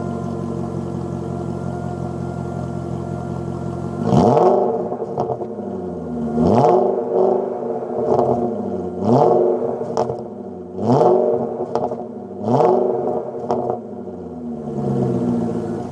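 BMW E39 535i's 3.5-litre V8 idling steadily, then revved sharply about five times with the throttle blipped, each rev rising fast and falling back before it settles to idle again.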